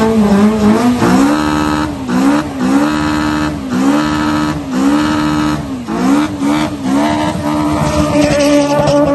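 A tuned four-cylinder Honda car engine held at high revs, its pitch dropping briefly and climbing straight back about once a second, over and over.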